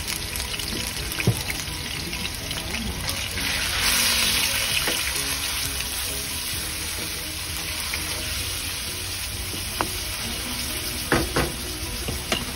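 Diced raw chicken breast sizzling in hot oil in a wok, a steady hiss that swells briefly about four seconds in as it is stirred with a wooden spatula. A few short knocks of the spatula against the wok, mostly near the end.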